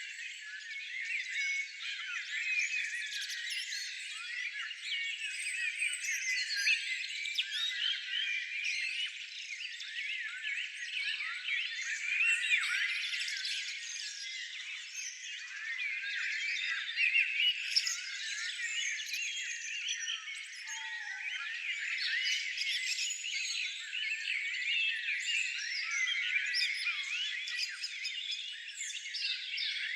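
Many small songbirds chirping and singing at once: a dense, continuous chorus of overlapping high chirps and short trills.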